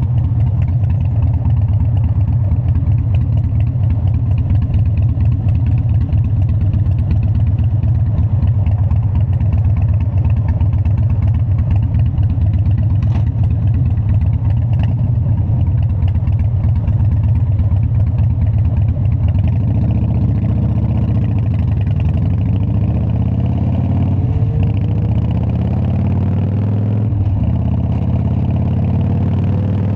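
Harley-Davidson Dyna's V-twin engine running with a loud, steady low rumble. In the last third its pitch rises and falls several times as the engine speed changes.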